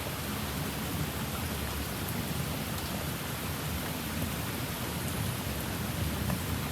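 Heavy rain pouring steadily in a storm, with a low rumble underneath.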